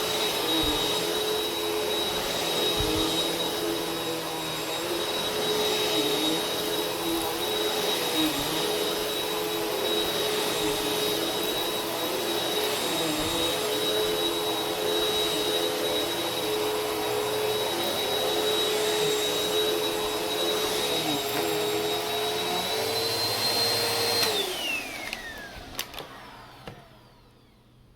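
Vacuum cleaner running steadily with a high motor whine, then switched off about three-quarters of the way through: the whine falls in pitch and fades as the motor spins down, with a couple of light clicks.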